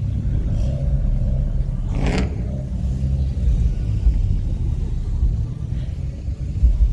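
Car engine running with a steady, deep exhaust rumble, and a brief shout about two seconds in.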